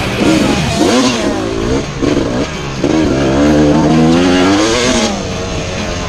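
Motocross dirt bike engines revving hard, their pitch climbing and dropping again and again as the bikes accelerate and shift on the track. More than one engine is heard at once.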